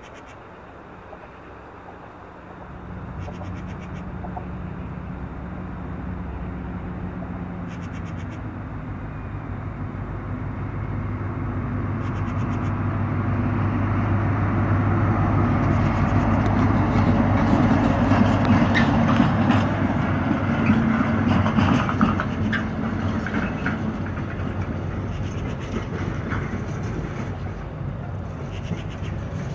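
A train moving through a rail yard: a steady low engine hum sets in, then wheel-on-rail rumble and clatter swell to a peak a little past the middle and slowly fade.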